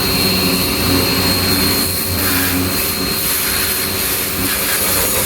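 Ava P25 high-pressure washer running and spraying, a loud steady hiss of the water jet over the machine's steady hum.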